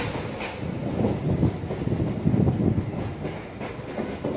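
A moving passenger train heard from an open window: a steady running rumble with uneven clattering and clanks as the wheels cross rail joints and points.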